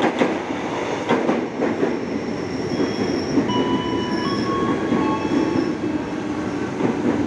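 Electric KRL commuter train running into the station platform: clatter of wheels over rail joints in the first second and a half, then high, steady squealing tones at several pitches from about three seconds in as it slows.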